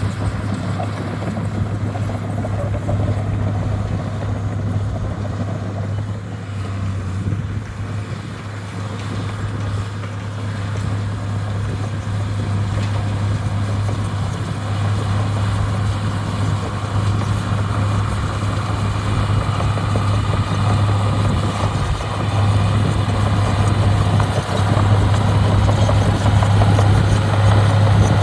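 Heavy earthmoving machine's diesel engine running with a steady low hum, getting louder over the last few seconds.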